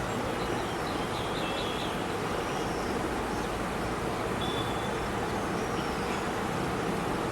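Steady outdoor background noise with a low rumble, over which small birds give faint high chirps: a quick run of short notes about a second in and a single thin note near the middle.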